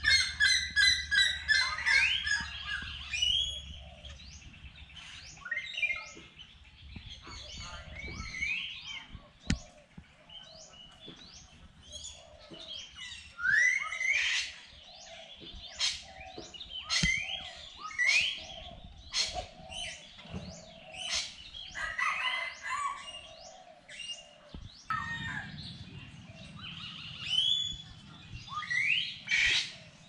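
Several birds calling over one another: chirps, squawks and short rising calls. A fast, loud run of repeated notes in the first couple of seconds is the loudest part.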